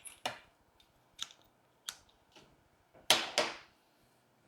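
Trachelium stems being handled and set into floral foam: scattered light clicks and rustles, with two louder sharp clicks close together about three seconds in.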